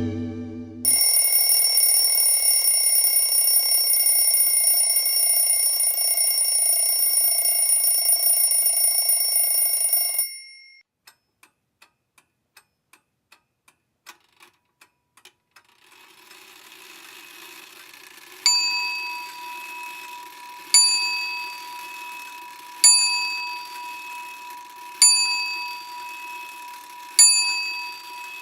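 A run of separate sound effects. First a steady high ringing tone with a hiss under it for about nine seconds, then a few seconds of faint ticks at about two or three a second, then a small bell struck about every two seconds, each ring fading out, over a low hum.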